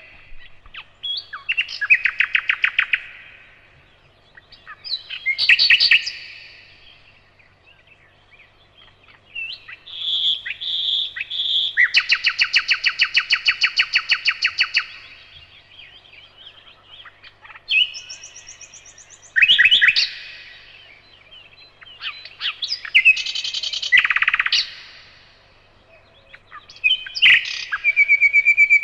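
Nightingale singing in separate phrases a few seconds long with short pauses between: fast rattling trills, three clear whistled notes, and a long rapid trill about midway.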